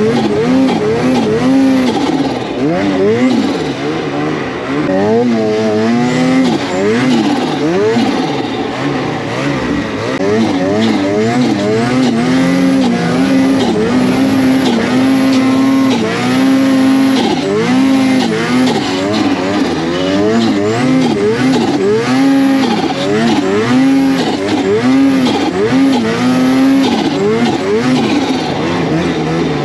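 Snowmobile engine under constant throttle changes while riding through snow, its pitch rising and falling over and over.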